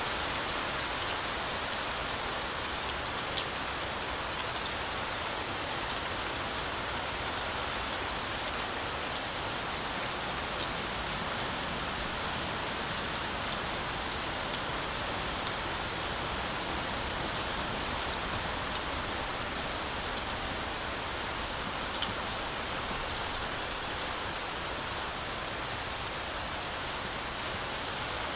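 Heavy rain falling steadily through a forest canopy, a dense even hiss with the odd louder drop tick.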